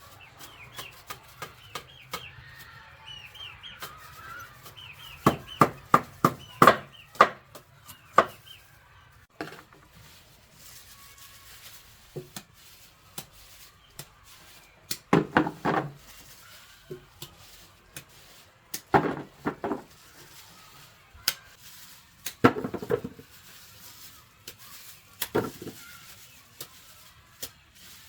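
Birds chirping in quick short calls for the first few seconds, then several clusters of sharp knocks, each a few rapid strikes.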